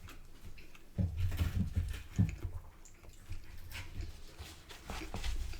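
A person chewing food close to the microphone: soft low bumps and small wet crackles, starting about a second in.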